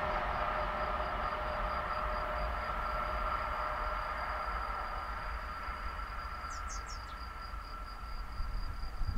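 Passenger train hauled by a red Swiss electric locomotive, running away into the distance, its rolling rush slowly fading. A steady high pulsing insect trill carries on underneath, and a bird gives three quick chirps about two-thirds of the way through.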